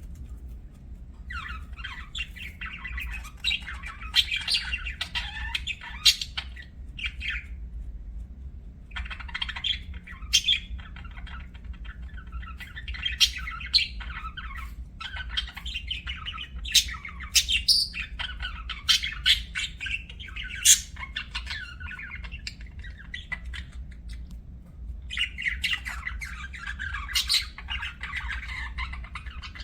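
Budgerigar warbling chatter in long bouts, full of quick squeaky chirps and a few sharp high chirps, with two short pauses.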